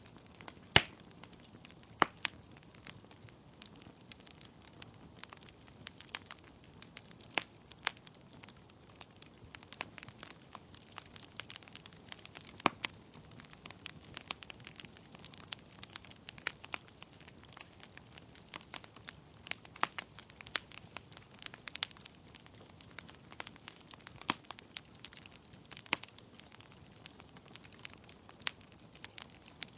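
Wood fire in a fireplace: burning logs crackling with frequent irregular sharp pops over a soft steady hiss of flame.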